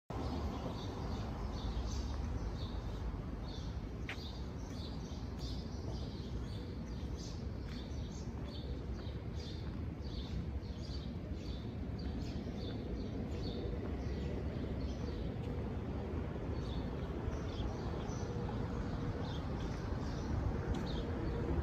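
Songbirds chirping in quick, repeated short calls throughout, over a steady low background rumble.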